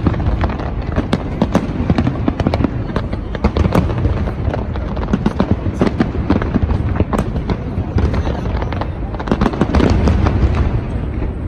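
Fireworks display going off: a dense, unbroken run of sharp bangs and crackles over a steady low rumble.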